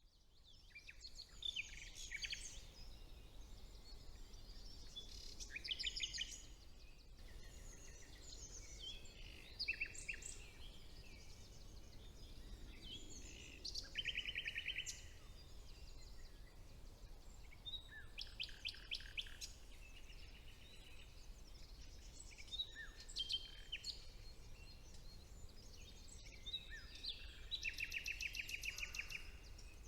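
Several songbirds singing in a spring woodland, short phrases from different birds overlapping, with now and then a fast trill of rapidly repeated notes.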